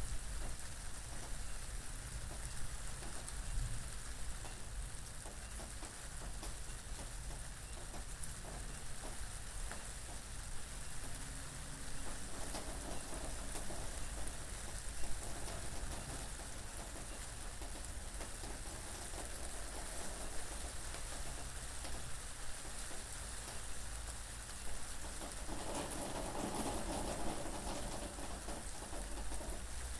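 Steady rain falling, with many fine drop ticks over a low wind rumble, swelling a little twice.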